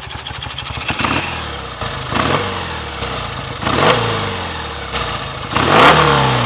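BSA A65 650 cc parallel-twin engine idling and blipped four times, each rev rising and falling back to idle, the last rev the highest and loudest.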